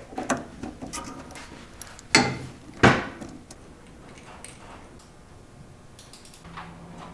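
A string of short knocks and clatters of metal parts and tools being handled while working on a VW Beetle's engine, the two loudest knocks about two and three seconds in.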